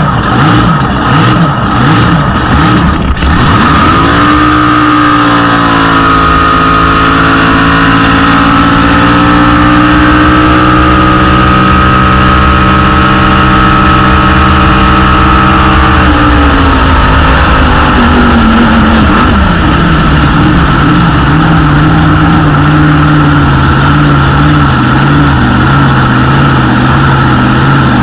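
Drag boat's big-block V8 engine: quick throttle blips for the first few seconds, then held at steady high revs for about twelve seconds, then dropping back to a lumpy idle.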